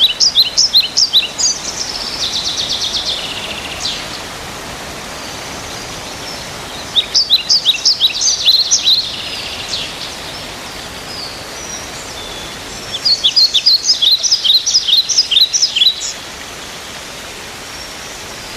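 A songbird singing phrases of rapid high chirping notes, about five a second. The phrases come at the start, about seven seconds in and about thirteen seconds in, each lasting two to three seconds, with a softer trill between the first two, over a steady outdoor background hiss.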